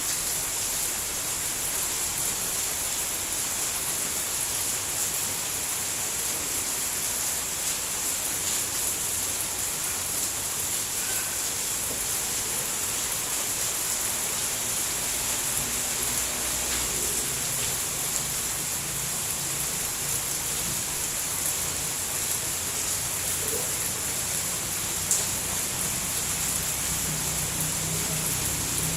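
Steady rain falling as an even hiss, with one sharper drop-like tick about 25 seconds in. A faint low hum comes in over the last part.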